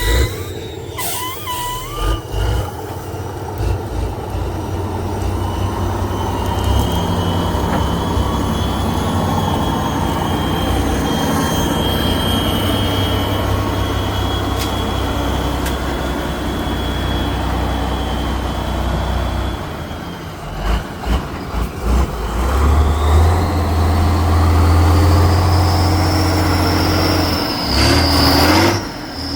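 Heavy off-road trial truck's engine running hard under load, with a deep rumble and a steady high whine that climbs in pitch about three-quarters of the way through. A few short knocks come about two-thirds of the way in.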